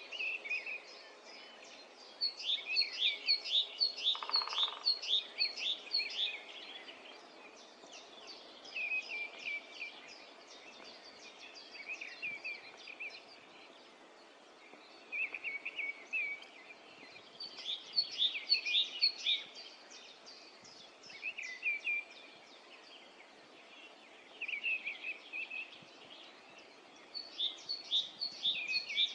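Songbirds singing in the morning, with phrases of quick high trilled notes repeating every few seconds and shorter, lower phrases in between.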